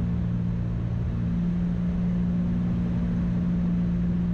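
Steady drone of a light piston-engine airplane's engines and propellers heard inside the cabin, at an even pitch and level during the landing approach.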